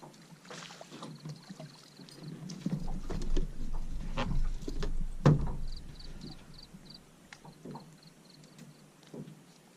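Knocks and bumps of a small fishing boat with some water movement. The sound is loudest and most rumbling in the middle and ends in a single sharp knock a little after halfway. A faint, evenly repeated high chirping follows.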